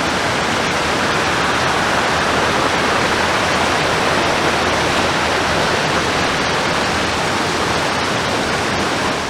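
Waterfall gushing: a loud, steady rush of water over rocks.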